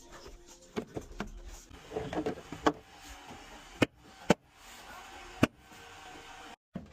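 A few sharp knocks or clicks, four of them spaced irregularly, over a low rattling handling noise.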